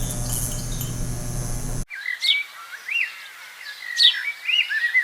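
A steady hum with low tones cuts off abruptly about two seconds in. A songbird follows, singing a repeated phrase three times, each a quick high downward-sweeping note followed by a short warble.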